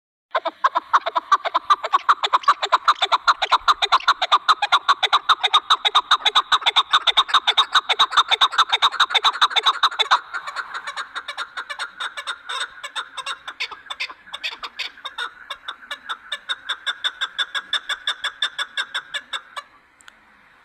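Chukar partridge calling: a fast, even run of short clucking notes, several a second, that drops in loudness about halfway through and stops shortly before the end.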